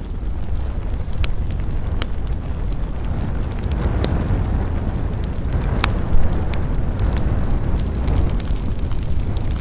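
Wood campfire burning: a steady low rumble of flame with scattered sharp crackles and pops of burning wood, one louder pop about six seconds in.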